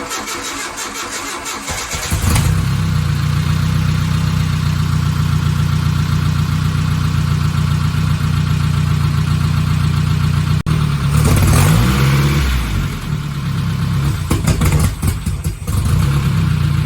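Nissan KA24E inline-four, swapped into a 1985 Nissan 720 pickup, cranking on the starter for about two seconds, then catching and running loudly through its freshly built exhaust. The revs rise and fall briefly near the middle. It runs rough.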